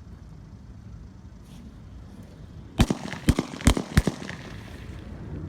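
Firework shells going off inside a pumpkin: four sharp bangs in quick succession, all within about a second and a half, starting about three seconds in. The pumpkin does not burst, and one shell is left unexploded and sparking.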